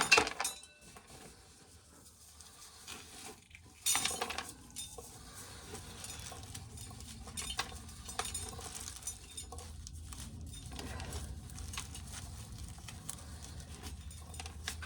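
Dried corn being shelled off the cob, loose kernels pattering and clicking, with a louder rattle about four seconds in. A faint low hum runs underneath.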